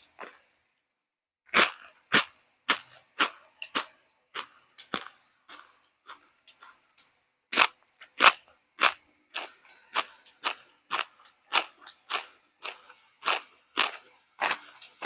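Crunchy food being chewed close to the microphone: a steady run of crisp crunching bites about twice a second, starting after a short pause and fainter for a stretch in the middle.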